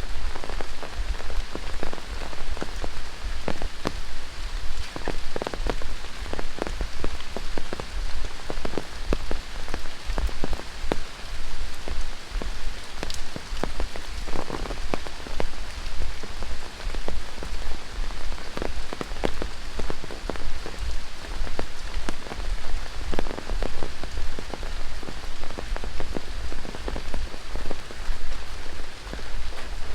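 Steady tropical rain falling on rainforest foliage, with many sharp, close drop hits scattered through the steady hiss.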